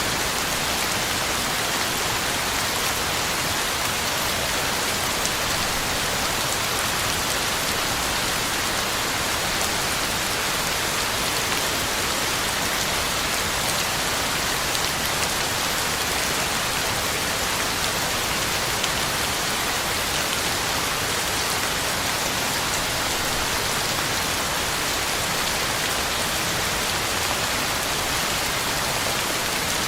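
Heavy rain falling steadily, a dense, even hiss of drops hitting the ground and leaves.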